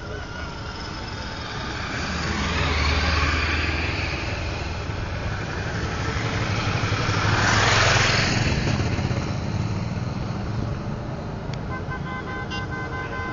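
Motorcycles riding past in a group. Two swell up and pass, loudest about three and eight seconds in, and a horn sounds steadily near the end.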